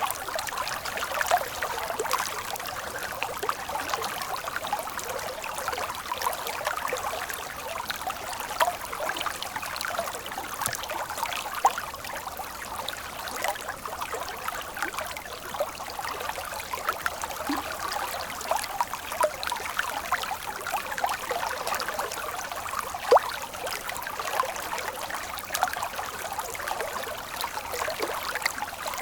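Water in a stream flowing steadily, an unbroken babble full of small splashes and trickles.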